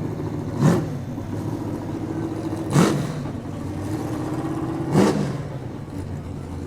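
Drag car's engine idling, blipped three times about two seconds apart, each a quick rise and fall in revs.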